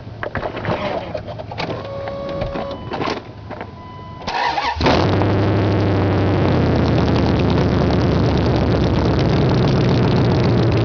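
1999 Dodge Dakota R/T's 5.9-litre (360) small-block V8 cranking and catching about four and a half seconds in, then running loud and steady through open Hooker headers with no exhaust behind them.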